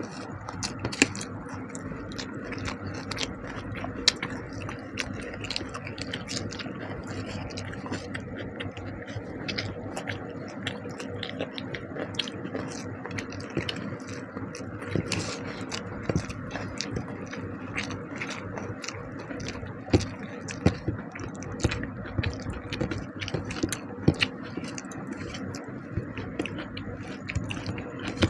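Person eating rice with fish curry: chewing and wet mouth smacks with many small clicks and a few sharper ones, over a steady low hum.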